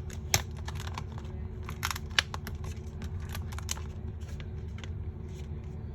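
Scattered small clicks and crinkles of a plastic protective cover being handled on a replacement phone screen, with a couple of sharper clicks, over a steady low hum.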